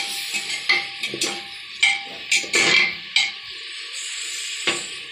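Onions sizzling as they fry in plenty of oil in a pressure cooker, with a metal spoon stirring and scraping against the pot several times.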